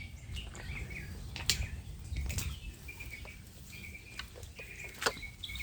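Birds chirping in short calls, with a few sharp clicks, the loudest near the end.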